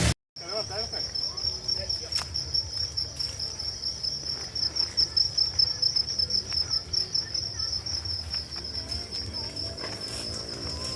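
Crickets chirping in a steady, high, rapidly pulsing trill, starting just after a moment of silence.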